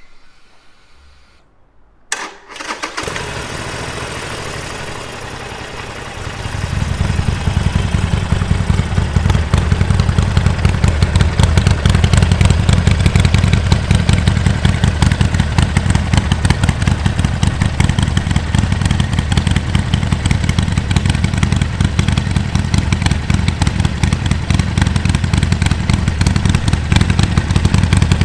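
Harley-Davidson Sportster Forty-Eight's air-cooled 1200 cc V-twin through a J&H aftermarket exhaust, started about two seconds in and then idling. It grows markedly louder and deeper about six seconds in and stays steady after that.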